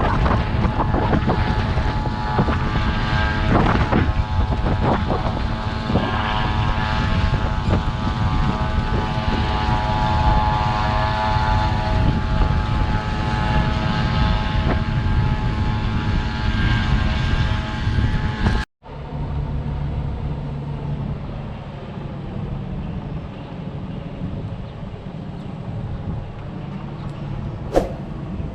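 Tractor engine running steadily under load, with a whine over a low rumble. About two thirds of the way through the sound cuts off abruptly and a quieter, lower engine hum follows.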